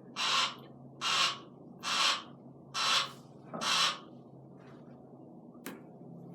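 Barn owl hissing in five raspy bursts about a second apart, stopping about four seconds in, then a single sharp click. The hissing is its defensive threat display, taken here as a good sign of fight in a weak, starving bird.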